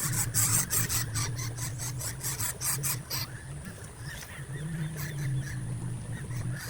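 A nestling bird's rapid, raspy squealing calls, repeated in quick irregular strokes, over a steady low hum.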